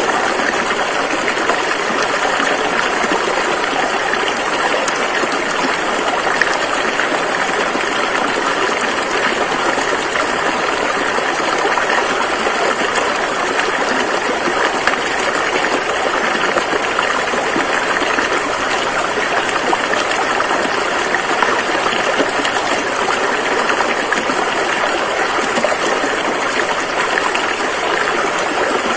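A fast-flowing river rushing steadily, an even, unbroken noise of running water.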